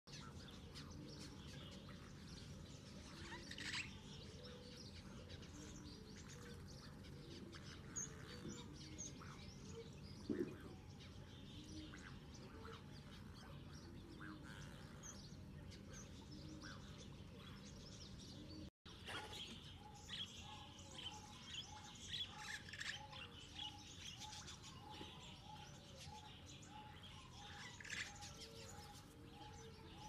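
Birds chirping and calling over a faint background hum, with a brief dropout just past the middle; after it a steady series of short low notes repeats about twice a second.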